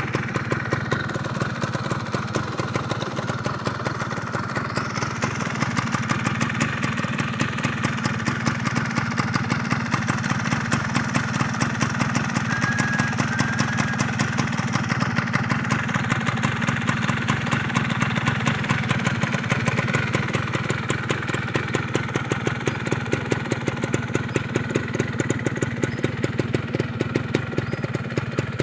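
Yamaha F1ZR's two-stroke single-cylinder engine idling steadily through an AHM aftermarket exhaust being tested, with an even pulsing beat.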